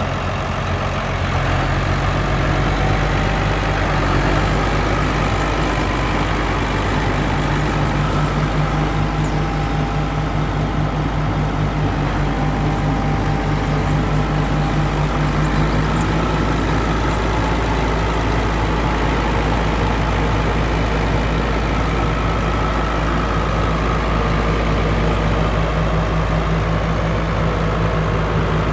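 John Deere 9320T track tractor's diesel engine running steadily, its level rising slightly in the first couple of seconds.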